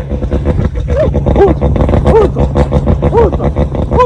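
VW Golf R's turbocharged 2.0-litre four-cylinder engine running with about five quick throttle blips, each a short rise and fall in pitch over a steady low pulsing idle.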